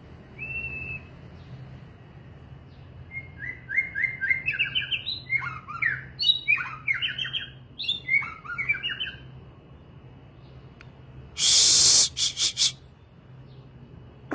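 A songbird singing a varied phrase of quick whistled notes that slide up and down, after one short note near the start. Near the end comes a loud noisy rush followed by three short ones.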